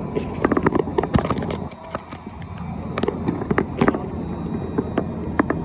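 Railway station platform ambience: a steady low rumble with many irregular sharp clicks and knocks, briefly quieter about two seconds in.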